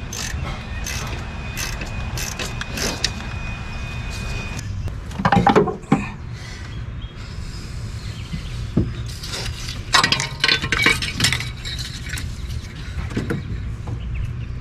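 Hand tools and metal parts clinking and knocking, with short runs of rapid clicks, as the EGR valve is unbolted and taken off a car engine.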